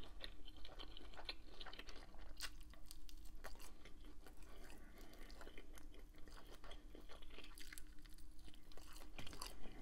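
Close-miked chewing of bacon-wrapped shrimp, with many small clicks and crackles from the mouth.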